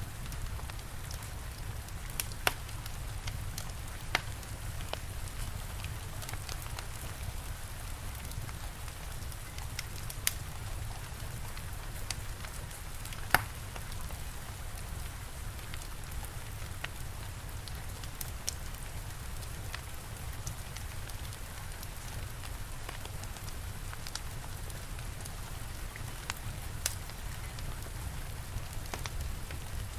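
Steady rain with a low rumble, mixed with the sparse, sharp pops and crackles of a wood fire; the loudest pop comes about 13 seconds in.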